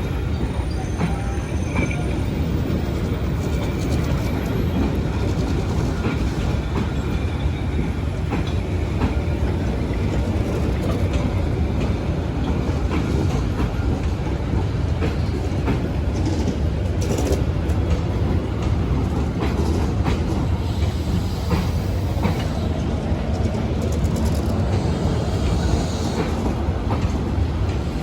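Train hauled by a D12E diesel locomotive running on the rails: a steady, loud rumble of wheels and engine, with scattered clicks over the rail joints.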